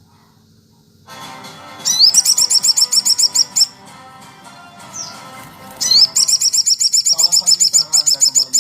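Small songbird singing rapid trills of high, evenly repeated chirps, about ten notes a second, in two bouts of a couple of seconds each; a masteran (tutor song) for training competition birds. Music plays underneath.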